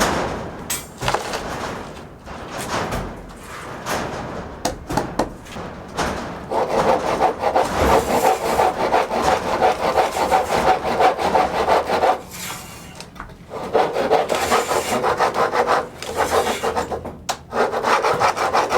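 Rasping, scraping tool work, like material being cut or filed, in long runs of several seconds with short breaks. Scattered knocks come before it.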